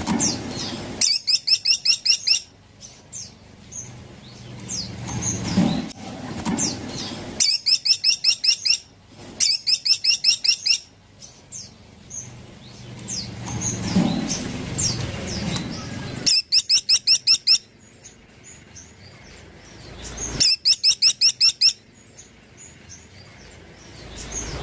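Caladi woodpecker giving rapid rattling calls: five bursts, each a quick string of about ten high, evenly spaced notes lasting a little over a second, with softer scattered chirps between the bursts.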